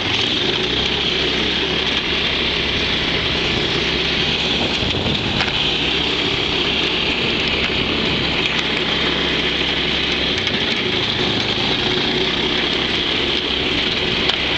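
Go-kart's Mitsubishi GT600 6-horsepower small engine running steadily while still cold from a cold start, its pitch shifting slightly near the start and again about ten seconds in.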